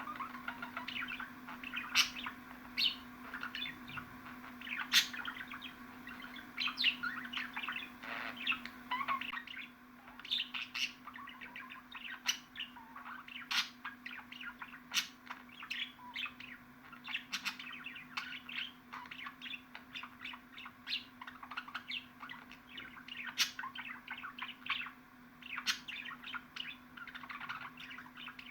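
Budgerigars chattering and warbling: a dense, continuous stream of short, sharp chirps and twittering calls, with a steady low hum underneath.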